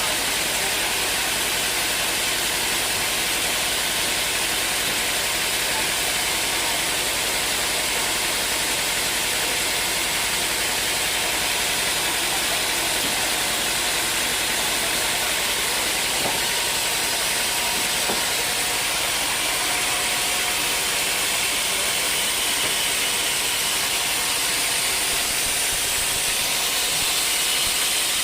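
Sawmill cutting through dry teak wood: a steady, unbroken hiss of blade and machinery with no pauses.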